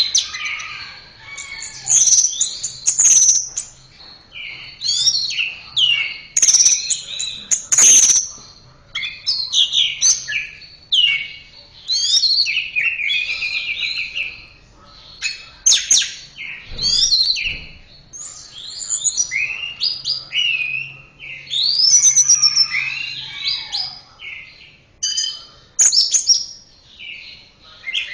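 Orange-headed thrush (anis merah) singing a long, varied song of quick whistled and chattering phrases, broken by short pauses.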